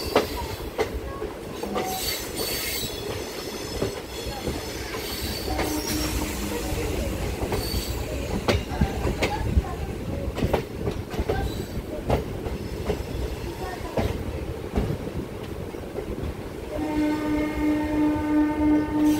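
A MEMU passenger train running, heard from its open doorway: wheels clicking over rail joints and points, with bursts of wheel squeal. A short train-horn note sounds about six seconds in, and a long train-horn blast starts near the end.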